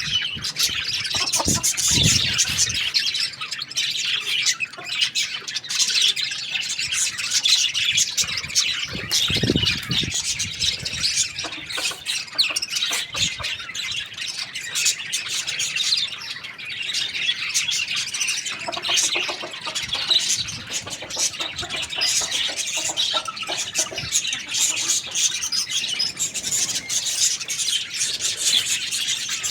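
A flock of small birds chirping and squawking at once, a dense, unbroken chatter of short high calls.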